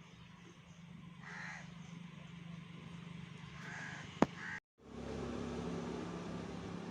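Two short bird calls about two and a half seconds apart, followed by a sharp click and a moment of dead silence, over a steady low hum.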